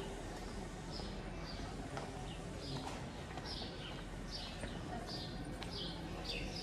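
A small bird chirping over and over, short falling chirps roughly every three-quarters of a second, over a steady background of street noise.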